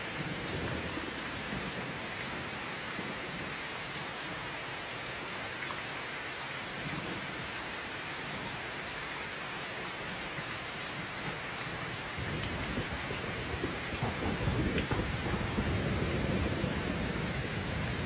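Steady rain hissing, and about two-thirds of the way through a low, rolling rumble of thunder comes in and swells.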